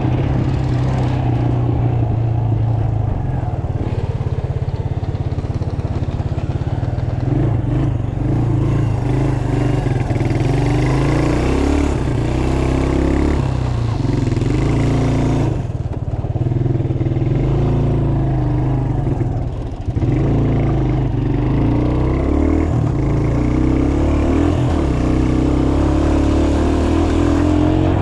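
Small mini bike engines running, their pitch rising and falling as the throttles are worked.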